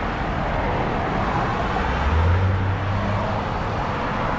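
Road traffic passing: a steady wash of tyre and engine noise, with one vehicle's low engine hum swelling about two seconds in and easing off before the end.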